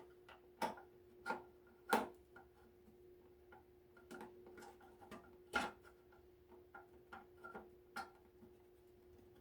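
Screwdriver working screws loose from the heater's casing: a dozen or so faint, sharp ticks and clicks at uneven intervals, the loudest about two seconds in and near the middle, over a faint steady hum.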